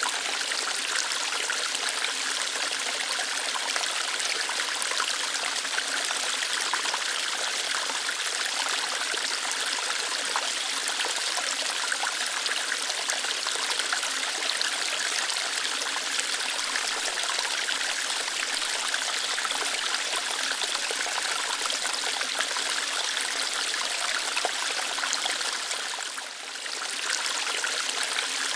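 Small waterfall of water flowing lightly over rocks: a steady, even rush and splash, dipping briefly in level near the end.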